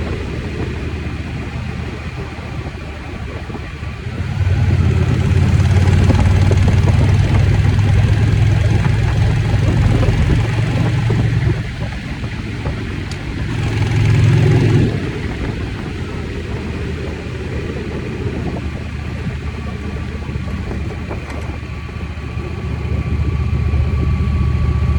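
Motorcycle engine running while being ridden. It gets louder for several seconds from about four seconds in, and again briefly near the middle.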